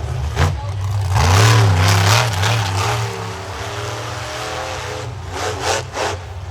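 Monster truck engine revving, its pitch swinging up and down with the throttle, loudest about a second to three seconds in and blipping again near the end.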